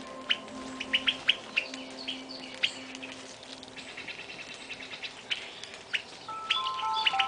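Small songbirds chirping: many short, high calls scattered throughout. A few held musical notes come in near the end.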